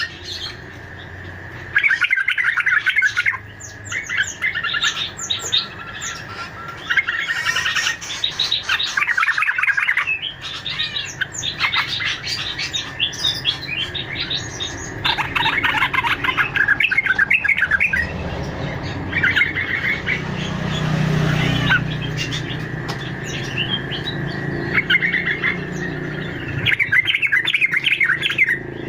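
Lure recording of fruit-eating songbirds: bouts of rapid chirping and twittering, each a second or two long, repeated with short gaps over a thin steady high tone.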